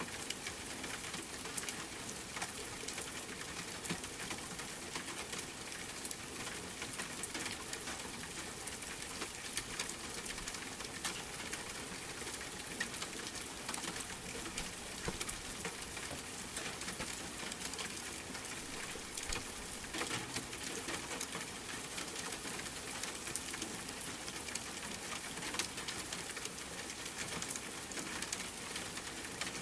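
Steady rain pattering together with a wood fire crackling in a fireplace, with frequent small pops and snaps.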